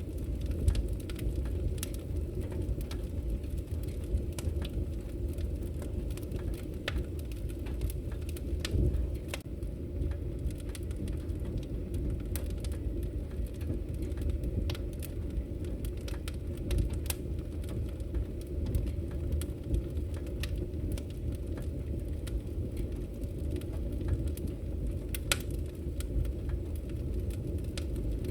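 Wood fire burning in a fireplace: a steady low rush of flames with irregular sharp crackles and pops from the logs.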